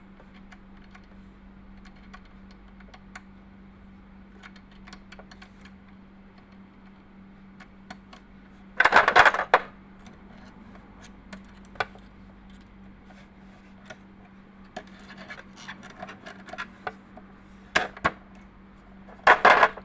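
Small metallic clicks and scrapes of a hand tool working the nuts on a Janome 393 sewing machine's hook drive, loosening them to reset the shuttle timing. Two louder metal rattles come about nine seconds in and again near the end.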